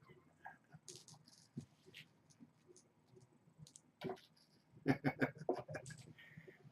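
Kittens scuffling in play: scattered soft rustles and small clicks, with a quick run of louder clicks and scrabbles about five seconds in.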